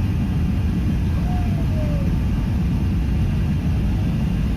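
Airbus A380 airliner in its take-off climb: a steady low rumble of engines and rushing air, even in level throughout.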